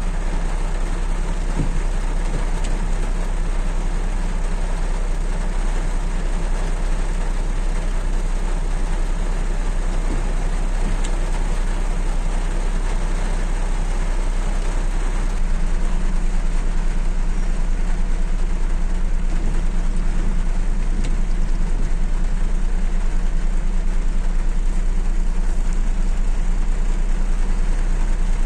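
Suzuki Mehran's small engine idling steadily under an even hiss of rain. Everything gets a little louder about halfway through.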